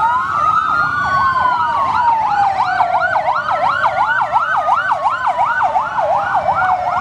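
Fire engine sirens: two sirens sounding together, one a slow wail that rises and then falls over several seconds, the other a fast yelp cycling about two to three times a second.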